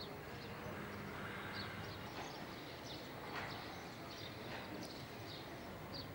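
Small birds chirping repeatedly in short, high notes over a faint steady hum.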